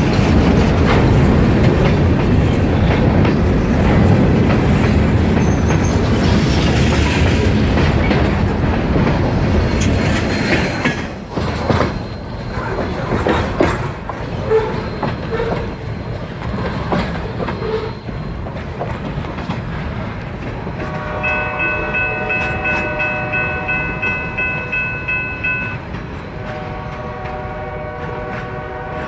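Diesel-hauled freight train passing with a heavy rumble and wheel clatter, fading about eleven seconds in, followed by scattered knocks. Later a pulsing warning sound of several steady tones rings for a few seconds and shifts lower in pitch near the end.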